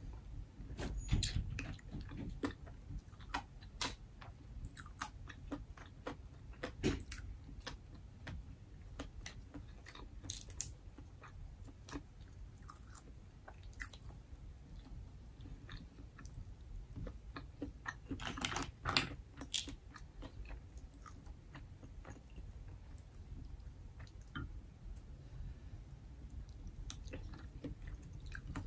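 Close-up chewing of steamed black mussels, wet and soft, with scattered sharp clicks and taps at irregular moments.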